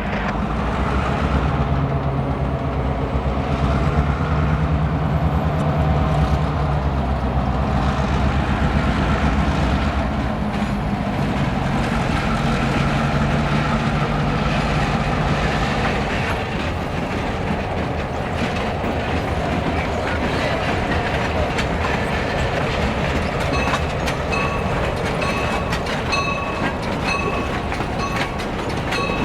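Diesel locomotives (an EMD GP38 and FP7A) passing with a loud engine drone for about the first half, then rail cars going by with wheels clicking over the rail joints. A repeating high ringing tone joins near the end.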